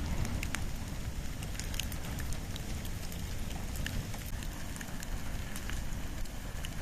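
Wood and bamboo burning in an open fire, crackling with many sharp, irregular pops over a steady low rumble.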